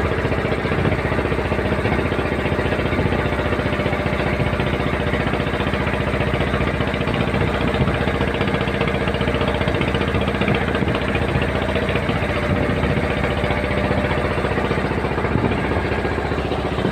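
Boat's engine running steadily on board, a fast, even beat with no change in speed.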